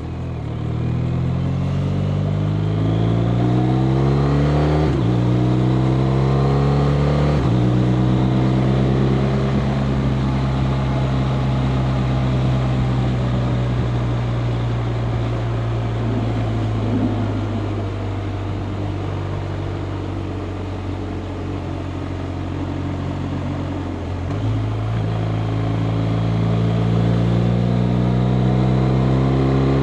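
BMW R 1250 RT motorcycle's boxer-twin engine pulling through the gears under acceleration, with upshifts about five and seven seconds in. It then runs at a steady cruising pitch, with wind rush. Around 24 seconds in the engine pitch steps up at a gear change and it pulls again.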